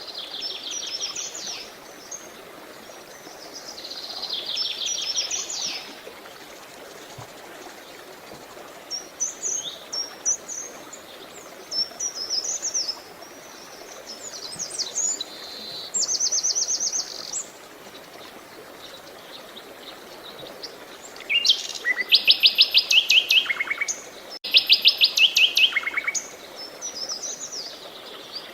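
Songbirds singing short trilled and chirping phrases, the loudest fast trills coming about three quarters of the way through, over the steady rush of running water.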